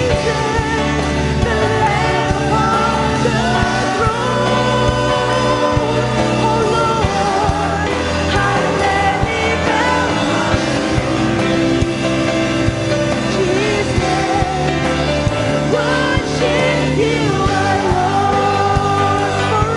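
Live church worship music: a band holding a steady chord progression under sung vocal lines.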